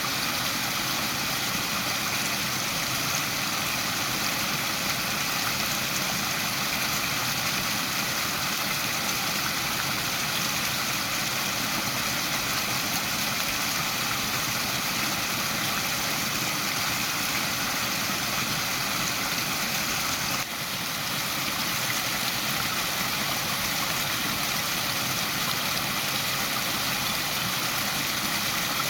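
Waterfall: a steady, unbroken rush of falling water, with a brief dip in level about two-thirds of the way through.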